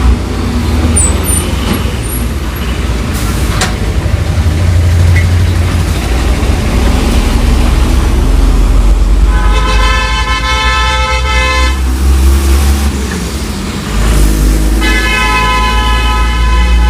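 Diesel engine of a loaded Tata 2518 tipper truck running with a steady low rumble. A vehicle horn sounds two long blasts over it, one about nine seconds in and one about fifteen seconds in, each lasting a couple of seconds.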